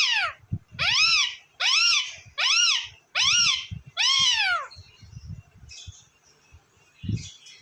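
A parrot repeating a loud, meow-like call about seven times in a steady series, each call rising and then falling in pitch. The calls stop a little after halfway, leaving faint scattered noises and a low thump near the end.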